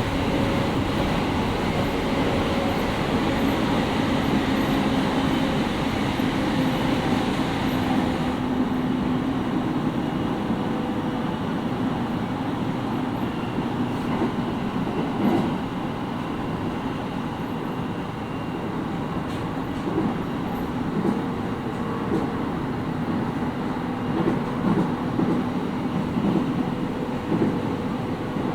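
Interior running sound of a JR East 701 series 5500-subseries electric train in motion, heard inside the motor car: a steady hum of motors and gears over wheel-on-rail rumble. The high hiss eases about a third of the way in, and in the second half the wheels knock over rail joints in short irregular groups.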